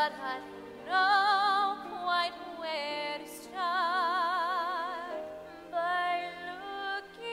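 A woman singing a slow ballad in a trained, near-operatic style, holding notes with wide vibrato in phrases a second or two long, over a soft instrumental accompaniment.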